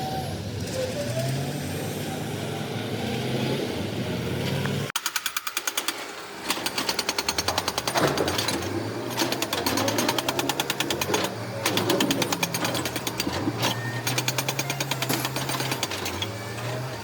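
Heavy machinery running with a low drone. About five seconds in, after an abrupt change, a fast, even train of sharp hammering impacts, many per second, runs over it.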